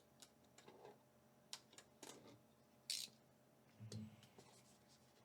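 Faint, scattered scratching and crinkling of plastic shrink wrap being cut off a Pokémon card Elite Trainer Box, with a sharper scrape about three seconds in.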